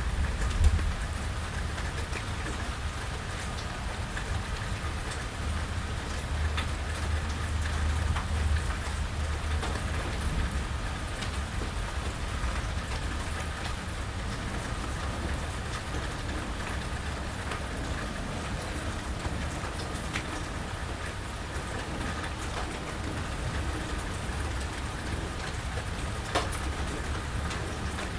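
Steady rain falling, with scattered sharp drips and a low rumble that swells and fades in the first ten seconds.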